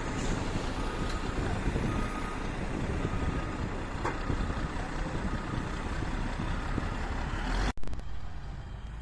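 Heavy earthmoving machinery running, a diesel engine's steady noise with a reversing alarm beeping about once a second. The sound breaks off abruptly near the end and comes back quieter.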